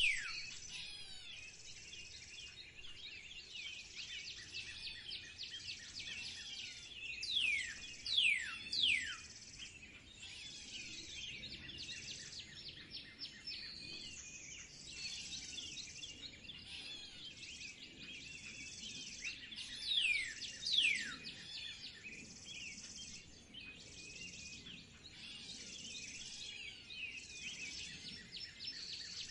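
Several wild birds chirping and twittering continuously, with loud, sharply falling whistled calls in pairs three times: at the start, around 8 seconds in, and around 20 seconds in. A steady high buzzing trill keeps repeating underneath.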